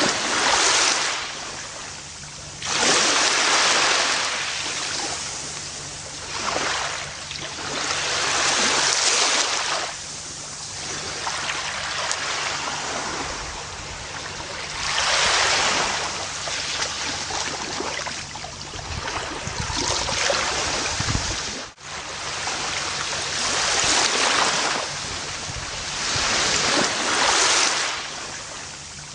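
Ocean waves breaking and washing up a beach, each wave a swelling rush of surf that fades again, with a new surge every three to six seconds. There is a brief sudden dropout about three quarters of the way through.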